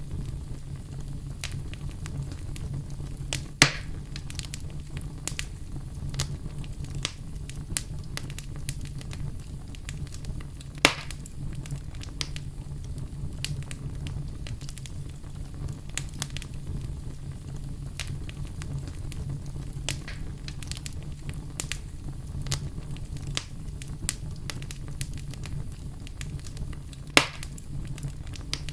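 Wood fire crackling, with a steady stream of small snaps and three loud pops about 4, 11 and 27 seconds in, over a steady low rumble.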